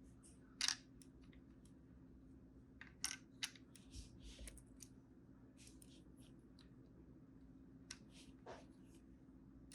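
Scattered small clicks and light taps of small hard parts being handled, over a faint steady hum.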